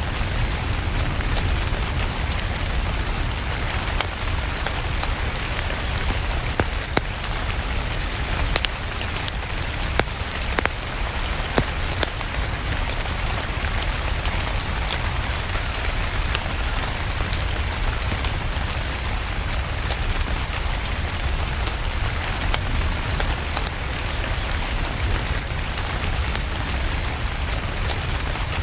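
Steady rain mixed with a crackling wood fire: an even hiss with a deep rumble beneath it, and sharp pops scattered through, bunched most between about 6 and 12 seconds in.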